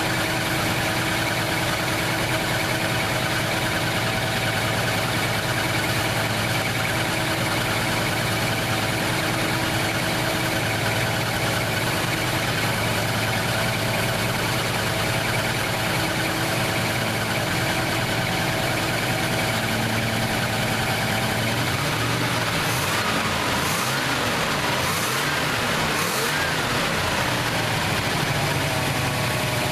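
1968 Plymouth Fury's 383 big-block V8 idling steadily, then revved several times in quick succession about two-thirds of the way in, the pitch rising and falling with each blip, before settling back to idle.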